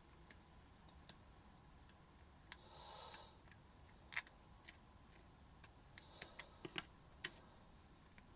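Faint scattered clicks and taps with a brief soft scrape about three seconds in, from small wooden dowel plugs being trimmed at the edge and handled.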